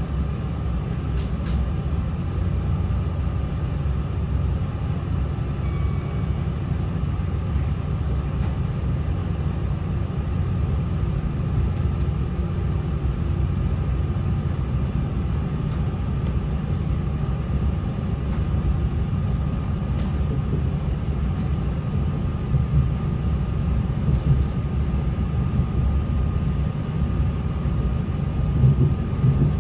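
Class 3000 diesel multiple unit running between stations, heard from on board: a steady low rumble of diesel engine and wheels on the rails, with a faint steady whine and a few faint clicks. The rumble grows a little rougher in the last several seconds.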